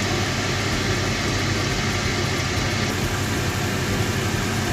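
Steady low machine-like hum with an even hiss over it.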